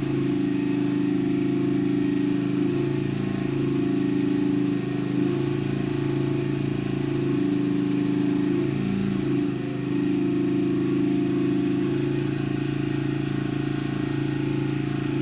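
A steady low mechanical drone from a running motor, holding an even pitch that wavers slightly, with two brief dips in loudness about five and ten seconds in.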